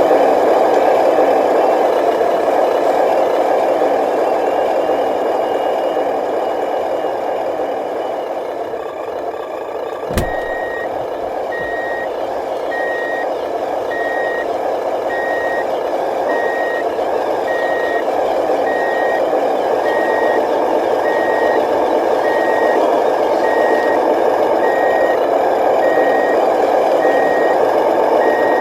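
Electric drive motor and gears of an RC dump truck whining steadily. A sharp click comes about a third of the way in, and then a reversing beeper sounds a high beep about once a second, signalling that the truck is backing up.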